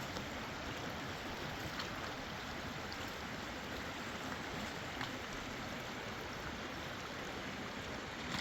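River water rushing: a steady, even noise.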